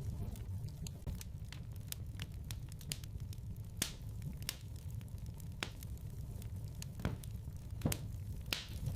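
Wood fire in a fireplace crackling: scattered sharp pops and snaps over a low, steady rumble, with louder pops about four seconds in and again near eight seconds.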